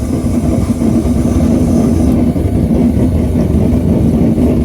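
Forge running with a loud, steady low roar and a constant hum, as the axe head heats in it.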